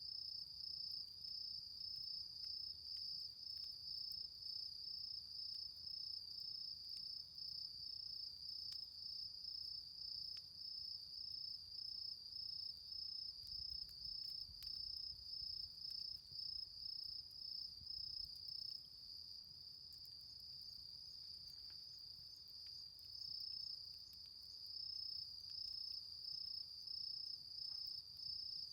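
Crickets chirping high and steady in an even pulsing rhythm, which smooths out and softens for a few seconds past the middle, with faint occasional crackles from the smouldering embers of a campfire.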